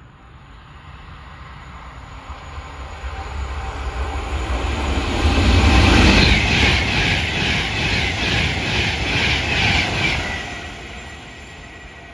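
A train passing: it builds up, goes by with a rhythmic run of wheel clicks, then fades away.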